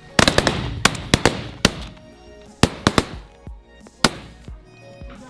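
Volley of shotgun shots from several hunters firing at ducks: a quick string of shots in the first two seconds, three more near three seconds, and a last one about four seconds in, over background music.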